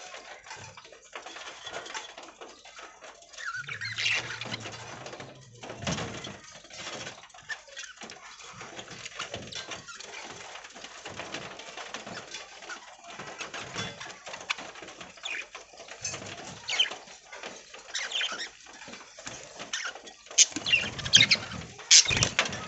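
A flock of budgies chirping and chattering, with scattered clicks and rustles, louder near the end. A low hum runs for about two seconds near the start.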